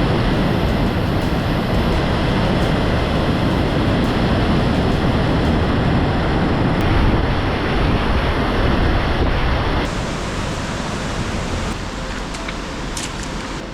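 Loud, steady rush of a large waterfall's falling water, with low rumble. It eases slightly about ten seconds in.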